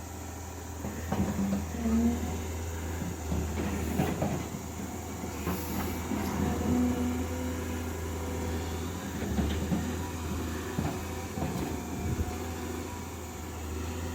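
Caterpillar 320D hydraulic excavator working, backfilling soil: a steady low diesel engine hum with repeated metallic clanks and knocks and a few short squeaks from the arm and bucket.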